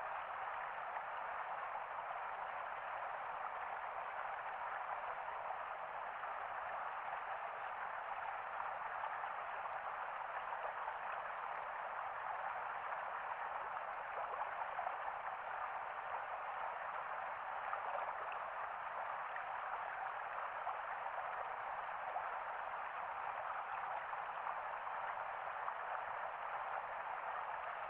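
Running water: a steady, even rush without any distinct splashes or breaks.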